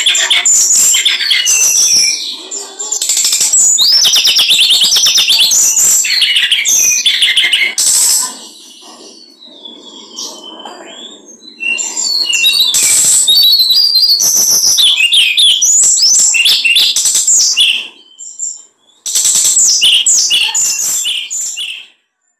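Small songbird, a kicau-mania contest-style bird, singing a loud, rapid, high-pitched song in long bursts, with a quieter pause of a few seconds in the middle.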